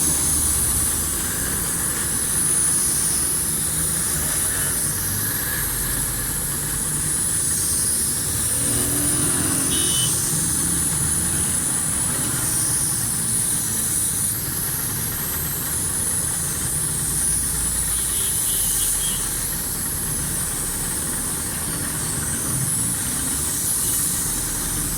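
A motor running steadily under a constant high hiss.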